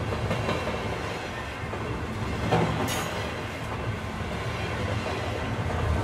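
Train running on the rails: a steady low rumble with the clatter of wheels, and a short high hiss about three seconds in.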